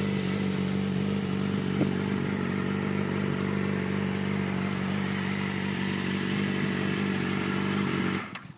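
2009 Yamaha R6's inline-four engine idling steadily through a full Yoshimura exhaust with stainless steel headers, then cutting off near the end.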